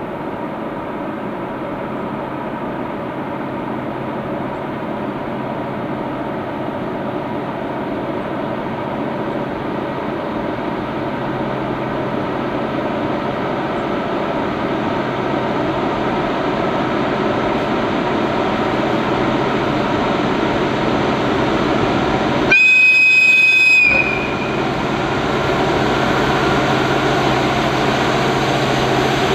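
Diesel train approaching, its running noise building steadily louder. About 23 seconds in it sounds its horn once: a single steady blast lasting just over a second.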